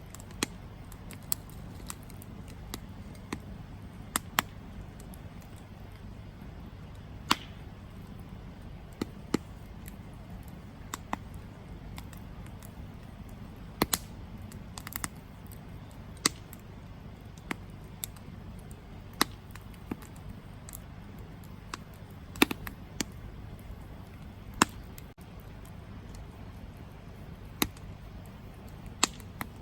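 Wood campfire burning: a steady low rumble of the flames with irregular sharp crackles and pops from the burning wood, a couple dozen scattered through.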